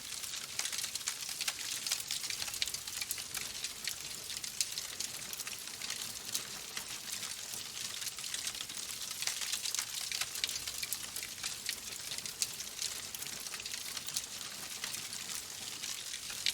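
Wood fire burning in a fireplace, the logs crackling with many small, irregular pops over a steady hiss.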